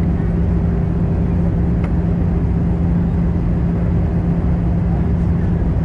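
Cabin noise of an Airbus A320-214 with CFM56 engines in flight: a steady drone of engines and airflow with a constant low hum.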